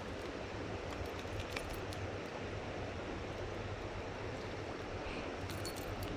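River water rushing over rocks in a steady, even wash, with a few faint ticks on top.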